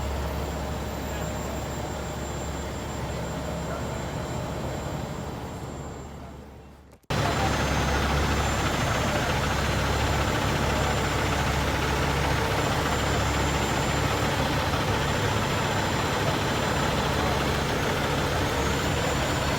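Heavy truck engine idling steadily. The sound fades out about six seconds in and cuts back in abruptly a second later.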